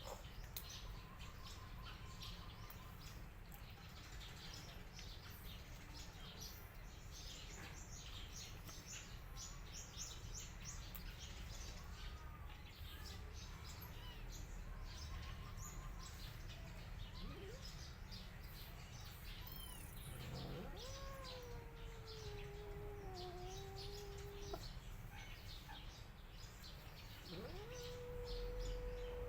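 Small birds chirping in the background, then a cat giving a long, drawn-out meow that lasts about four seconds, about two-thirds through; another long meow begins near the end.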